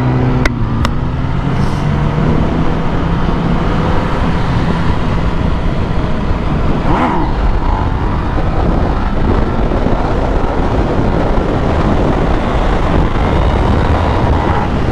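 Motorcycle engine running as the bike rides off, its steady hum fading within the first few seconds, under a loud, constant rush of wind noise on the microphone.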